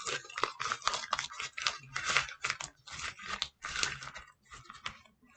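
Paper being crumpled up by hand into a ball: a run of irregular crackles that thins out near the end.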